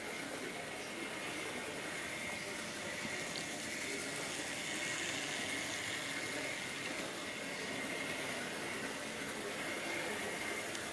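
Two small electric motors of a model Michelin railcar running steadily on its track: a continuous high whine over a rushing running noise, swelling a little mid-way.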